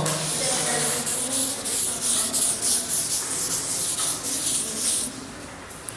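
Scratchy rubbing and rustling, a quick run of irregular strokes that stops about five seconds in.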